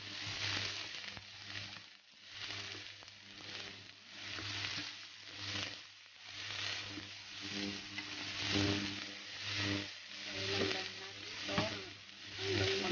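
Chopped shallots and ginger sizzling in hot oil in a pan, stirred with a spatula. The frying hiss swells with each stroke, about once a second.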